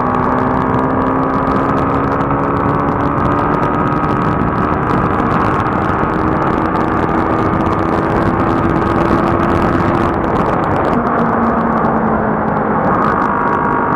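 Motorcycle engine running at highway cruising speed under heavy wind and road noise. Its pitch climbs slowly, then drops about ten seconds in.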